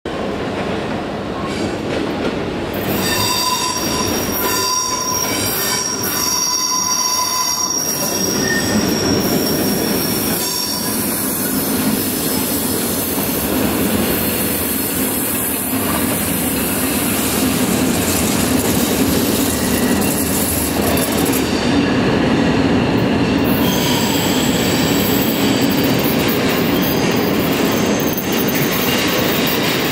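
Regional train rolling into a station with steady running noise. Its wheels squeal high on the rails for several seconds in the first third.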